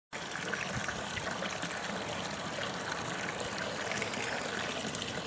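Water trickling and splashing steadily in a homemade garden fountain.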